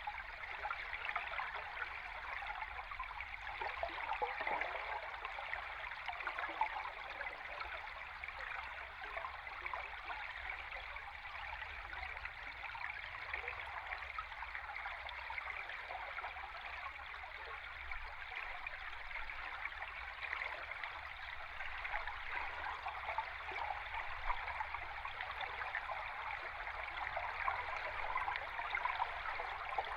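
River stream recorded underwater: a steady, even rush of flowing water with fine crackle, and a faint low rumble beneath.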